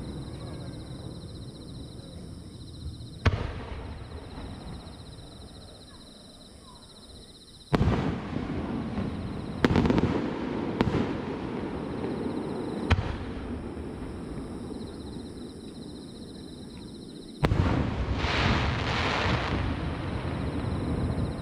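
Aerial fireworks shells bursting in a display: several sharp booms, each followed by a long rumble as the bang echoes off the surrounding mountains. After the last boom comes a crackling hiss.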